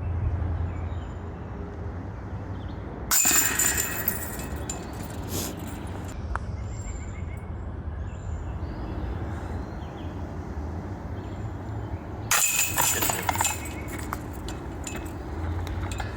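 Two discs hitting a disc golf basket's metal chains, each a loud jangling clatter lasting about a second, one near the start and one near the end, over a steady low rumble.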